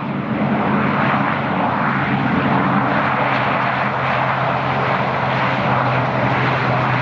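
Airliner engines running at high power, most likely for a takeoff roll: a loud, steady rush of noise with a low hum beneath it, swelling slightly in the first second.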